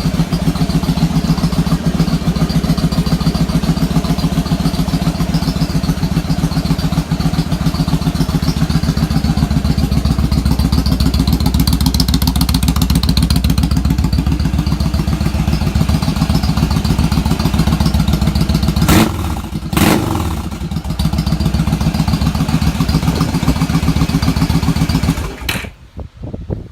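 Yamaha V Star 1100's air-cooled V-twin idling steadily on its first run after an oil change, circulating oil up through the new filter. Near the end come two quick throttle blips, and then the engine is switched off.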